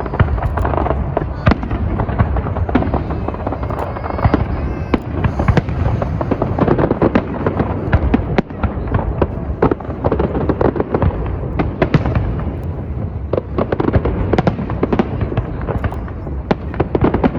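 A fireworks display going off: a dense, continuous run of bangs and crackles in quick succession, with hardly a pause.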